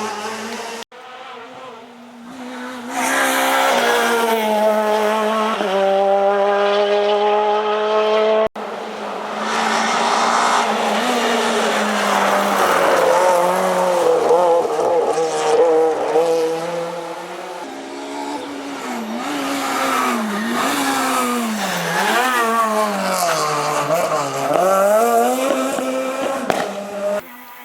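Renault Clio R3 rally car's naturally aspirated 2.0-litre four-cylinder engine at full throttle: revs climbing in steps through the gears, held high, then rising and falling again and again as the car is driven hard, with several abrupt cuts between passages.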